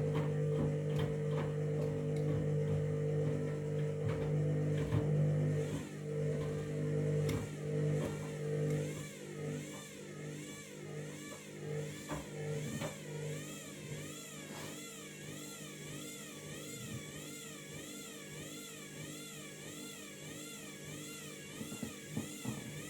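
Washing machine running: a steady motor hum fades away after about six to nine seconds. A higher whine then takes over, wavering up and down in pitch at an even rate.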